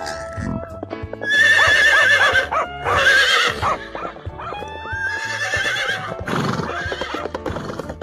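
Horse whinnying, a high quavering call about a second in and a weaker one near the middle, over background music.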